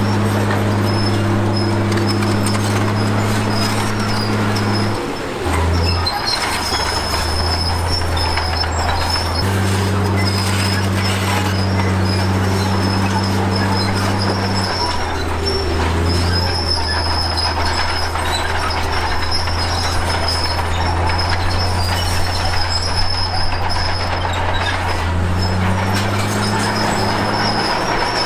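Crawler bulldozer (Komatsu D53P) at work: its diesel engine runs steadily, shifting pitch a few times as the load changes, over the squeal and clatter of its steel tracks.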